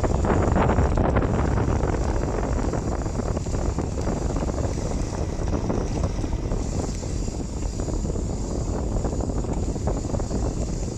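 Steady wind rush buffeting the microphone, mixed with road noise from a bicycle rolling downhill on a wet road.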